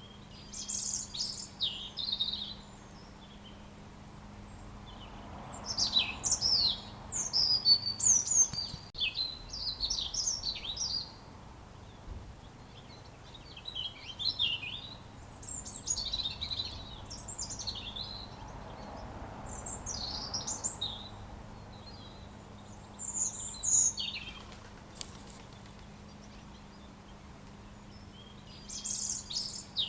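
A robin singing: high, quick, varied warbling phrases lasting a second or a few seconds each, with pauses of a few seconds between them, over a faint steady low hum.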